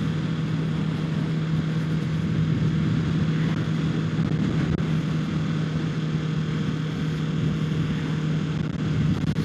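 Kawasaki Ninja 650 parallel-twin engine running at steady throttle, its note holding one pitch, under steady wind rush at the helmet microphone.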